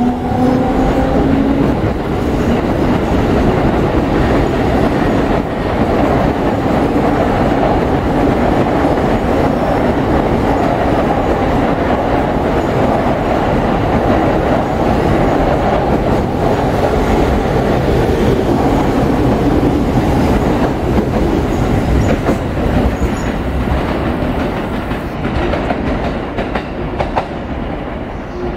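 Unrefurbished E231 series electric train accelerating out of the station, its cars passing close by with steady running noise and wheels clacking over rail joints. A rising inverter whine fades out within the first second. The sound tapers off near the end as the last cars go by.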